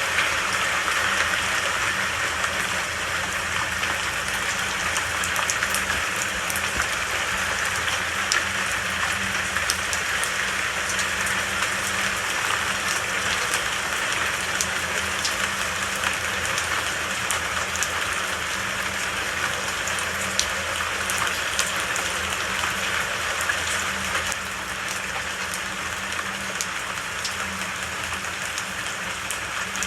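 Steady rain falling: a dense, even hiss with faint scattered drop ticks, a little quieter from about three-quarters of the way through.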